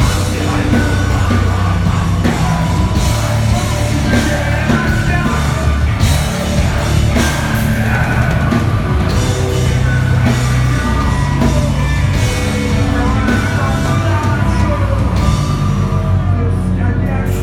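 Live heavy rock band playing, with distorted guitars, bass and drum kit, and shouted vocals.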